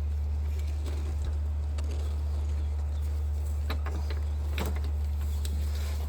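Steady low hum with scattered clicks and knocks, the clearest two about three and a half and four and a half seconds in, from hands and tools working an ignition coil loose in the engine bay.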